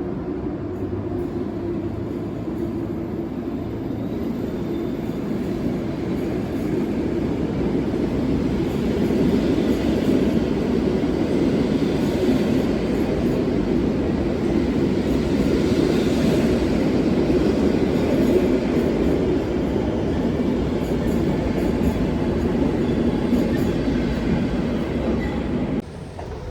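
Passenger train running on the rails, a steady rumble that grows louder about ten seconds in, then cuts off suddenly near the end.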